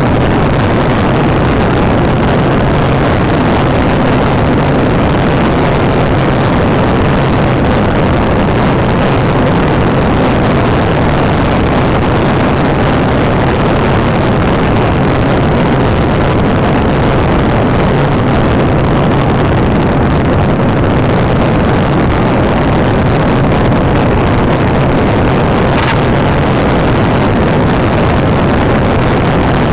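Patrol car driven at high speed in a pursuit: steady, loud engine, road and wind noise.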